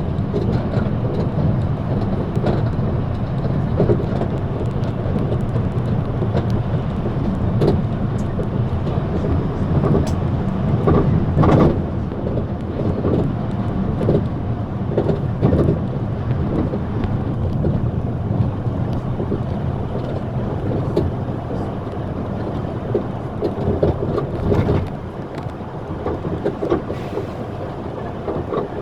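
Steady low rumble of a moving vehicle heard from inside, with frequent short knocks and clicks over it.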